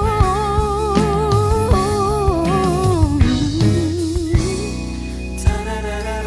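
Female singer holding a long note with a wide vibrato over a backing band with guitar and drums, stepping down to a lower note about three seconds in. The voice drops out near the end and the band carries on.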